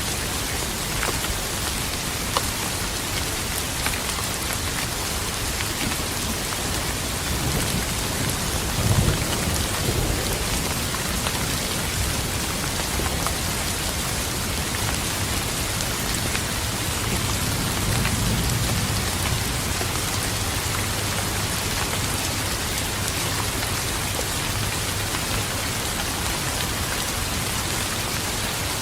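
Steady heavy rainfall with individual drops pattering, and distant thunder rumbling low twice, briefly about a third of the way in and longer past the middle.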